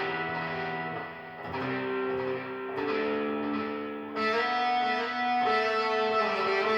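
Electric guitar playing a slow line of about five long held notes with a cello-like tone.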